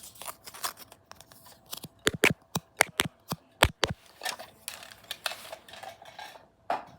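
A quick, irregular series of sharp clicks and taps, close to the microphone, loudest in a cluster in the middle, with some scratching and rustling after it.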